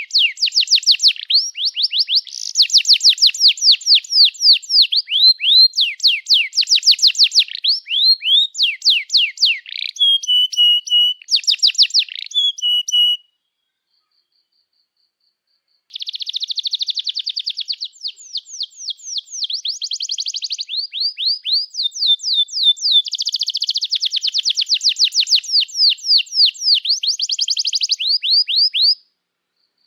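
Domestic canary singing a long song of fast trills of repeated chirping notes, changing from one run of notes to the next. It falls silent for about three seconds near the middle, then sings on.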